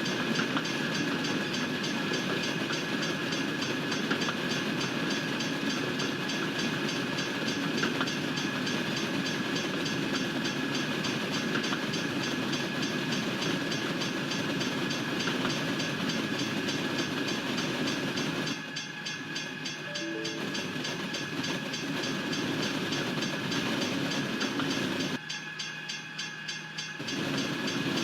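Norfolk Southern freight train rolling past a railroad crossing, its cars making a steady rumble and wheel clatter. The sound dips briefly twice, about two-thirds of the way in and near the end.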